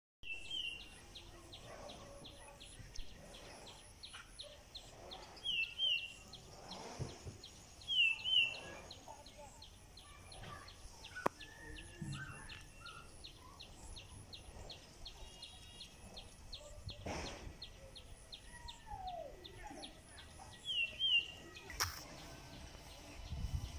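A bird calls a short two-note chirp four times, against a steady run of rapid, high-pitched ticking.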